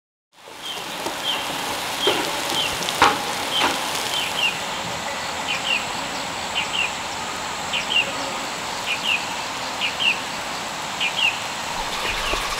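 Countryside ambience fading in after a brief silence: a steady hiss under a small bird repeating a short, often doubled chirp about once a second.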